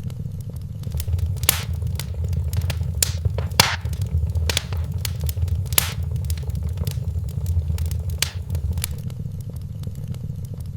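Wood fire crackling in a fireplace over a low, steady rumble, with scattered sharp pops, a handful of them louder.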